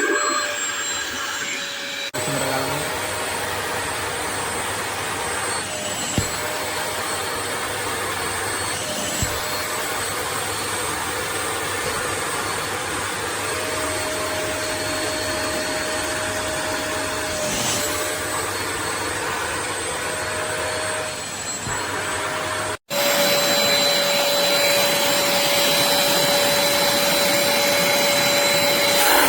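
HAUSHOF StainZapper upholstery spot cleaner (a wet vacuum) running steadily: suction noise with a steady motor whine. It cuts out for an instant about three quarters of the way through, then runs on slightly louder.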